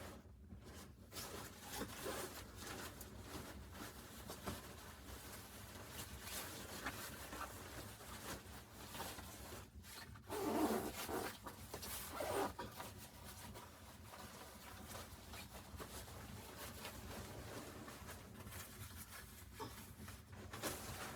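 Irregular rustling and scraping handling noises with scattered clicks, louder for a moment about ten and again about twelve seconds in.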